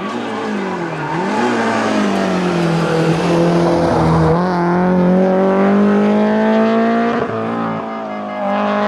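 Rally car engine at full throttle on a tarmac stage. The pitch dips about a second in, then climbs steadily under acceleration, breaks briefly near seven seconds as for a gear change, and runs on at a steady pitch.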